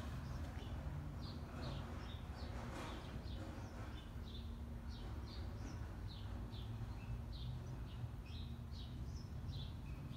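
Small birds chirping over and over, short high chirps a few times a second, over a steady low hum.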